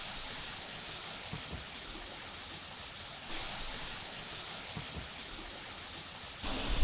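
Steady rush of a river's running water, with a few faint knocks. The sound grows a little brighter about halfway through, and a louder low rumble comes in just before the end.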